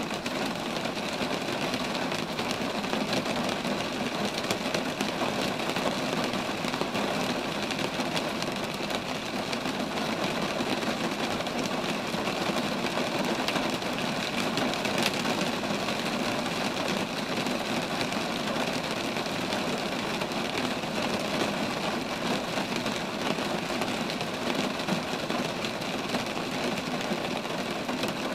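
Steady rain falling on roadside trees: an even hiss dense with small drop ticks.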